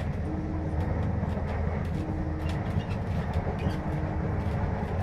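A train running on its rails: a steady low rumble with scattered clicks.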